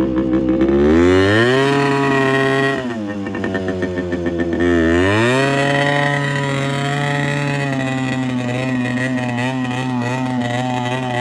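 Yamaha RX100 two-stroke single-cylinder motorcycle engine running: the revs rise about a second in and hold, fall back, then rise again about five seconds in and stay up.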